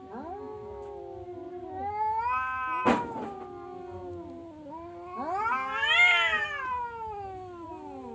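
Domestic cat yowling in long, drawn-out calls that rise and fall in pitch, the loudest near the end. A sharp click about three seconds in.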